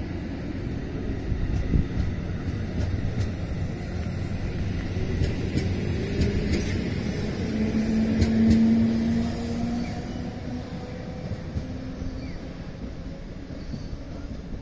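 JR West 213 series electric train pulling away from a station: a steady low rumble of motors and wheels with scattered clicks, a low hum swelling to its loudest about eight seconds in, then fading as the train draws off.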